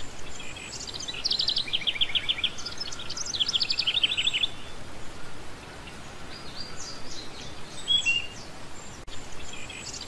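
Small birds singing: several runs of quick, high chirping notes, repeated many times a second, over a faint steady hiss.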